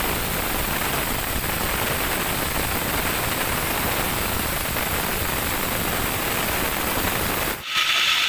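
Steady, even hiss like static that cuts off abruptly near the end, giving way to machinery with a steady high whine.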